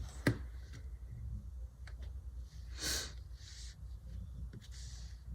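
Faint handling sounds of planner stickers and paper: a sharp click, then a few short rustles of paper over a steady low hum.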